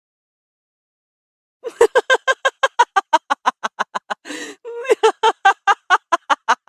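Silence for about the first second and a half, then a high-pitched, rapid laugh sound effect of about seven 'ha's a second, broken once by a breathy gasp partway through.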